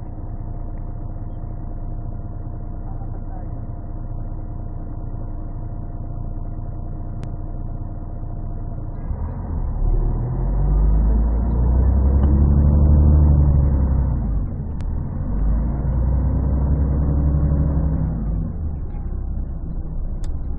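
Scania CN113CLL city bus's 11-litre Scania DSC11 six-cylinder diesel, with a Voith three-speed automatic gearbox, heard from inside the bus. It idles steadily, then about nine seconds in the bus pulls away and the engine note rises and falls through the gear changes. The sound is muffled and bass-heavy because the microphone was partly covered.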